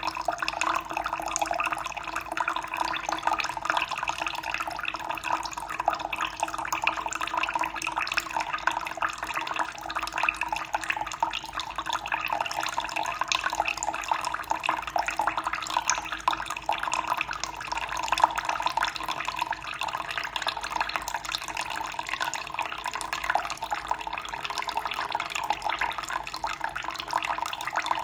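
Water running steadily, a continuous unbroken splashing flow.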